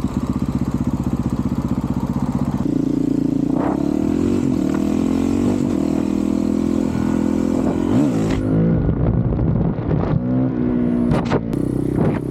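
Honda CRF450RL's single-cylinder four-stroke engine running through a full titanium Yoshimura RS-4 exhaust. It runs steadily at first, then about three seconds in the pitch changes and keeps rising and falling as the throttle is worked. A few sharp clicks come near the end.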